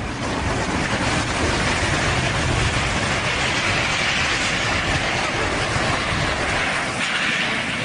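Loud, steady rumble and rushing noise of a heavy vehicle running close by, starting abruptly and holding level throughout.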